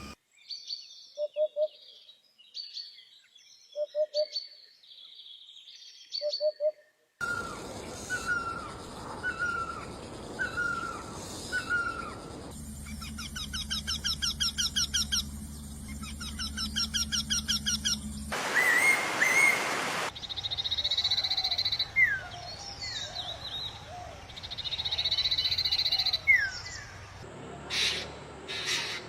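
Calls and songs of several different wild birds, cut one after another: repeated short chirps, rapid trills and rising and falling whistled notes, each recording changing abruptly to the next.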